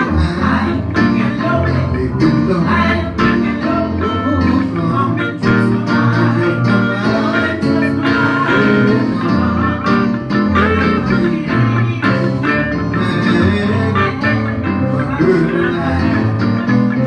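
Gospel band music led by guitar over a moving bass line, played continuously.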